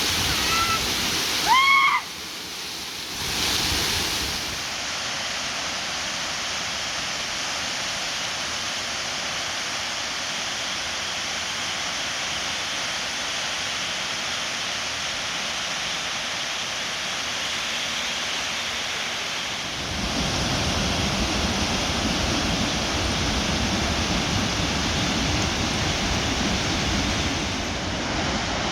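A waterfall running at high flow, a steady rushing of water. A short, high, bending call sounds about a second and a half in, and a deeper rumble joins the rush about twenty seconds in.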